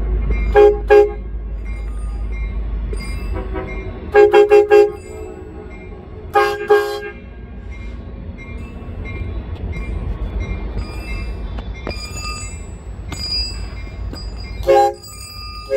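Train horn sounding short toots in groups: two near the start, four in quick succession about four seconds in, two more shortly after, and one near the end, over a steady low rumble from the train.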